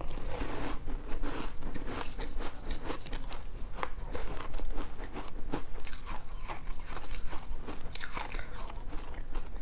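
A person biting and chewing freezer frost, giving a dense series of crisp crunches and crackles close up.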